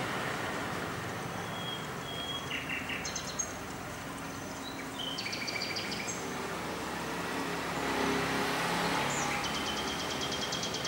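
Small birds chirping in several short, rapid trills of high notes over steady outdoor background noise with a faint low hum.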